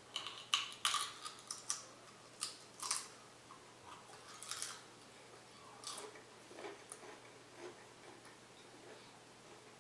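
A Pringles potato crisp being bitten and chewed: a quick run of sharp crunches in the first three seconds, then fewer, softer chewing crunches.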